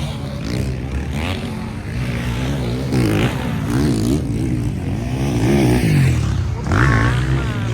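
Several motocross motorcycles racing, their engines revving up and dropping back again and again as riders work the throttle and shift through the laps.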